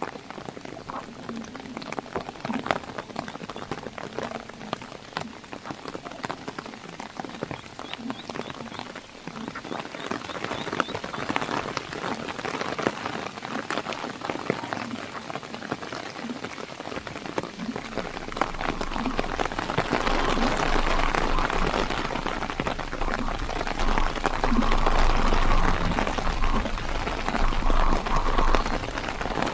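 Heavy monsoon rain pattering with many separate drops. It grows louder about two-thirds of the way in, when a low rumble joins it.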